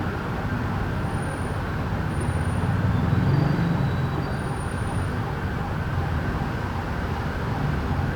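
Steady city traffic rumble that swells briefly about three seconds in. A small wind chime rings faintly a few times above it with short high tones.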